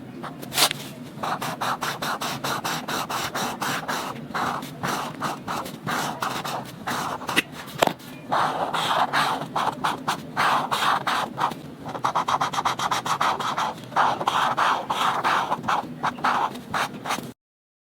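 Coloring strokes scratching on paper: a fast run of short back-and-forth strokes, several a second, in bursts with brief pauses, cutting off suddenly near the end.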